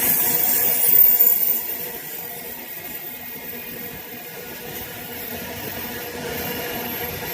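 Train running on the rails, a noisy rumble that is loudest about a second in and then eases off.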